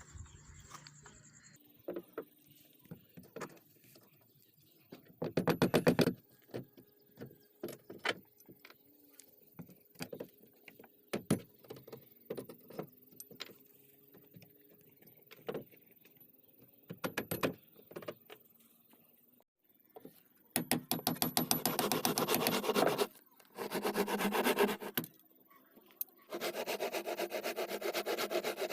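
Wood being worked by hand: scattered clicks and knocks of tools being handled, then bursts of fast, even scraping strokes on wood, the longest run of strokes coming in the last third.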